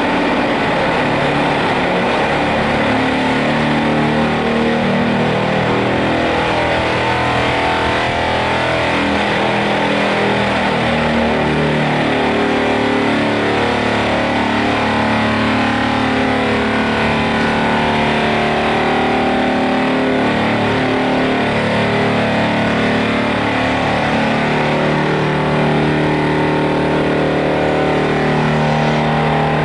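Heavy machinery engines running steadily, their pitch shifting up and down over a constant mechanical din.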